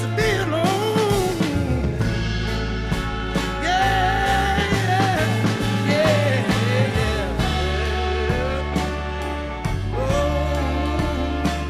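Blues-rock band playing a slow song: steady bass notes and drums under a male singer's long, wavering held notes, with no clear words.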